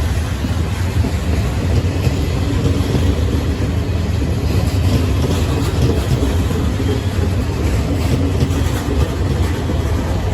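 Passenger train moving on the rails alongside the platform, a steady heavy rumble with wheel and rail noise.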